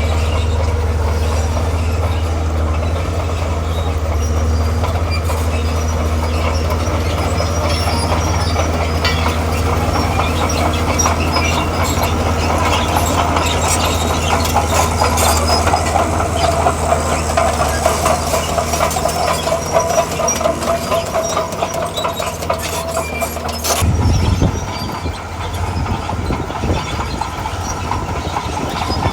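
Tracked earthmoving machine working: its diesel engine runs with a steady low note while the steel crawler tracks clank and squeak. A squealing tone rises out of the clanking in the middle, and the steady engine note changes abruptly near the end.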